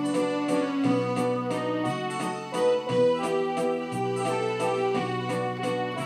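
Supra SKB-615S home synthesizer playing a melody over bass and chord accompaniment with a steady beat.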